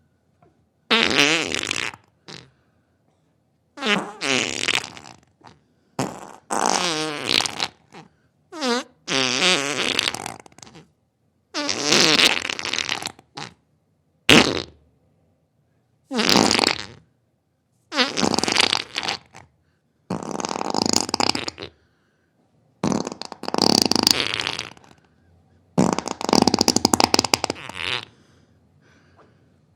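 A series of about a dozen farts, each lasting one to two seconds, with short silences between. Some are pitched and wavering, others rough and hissy.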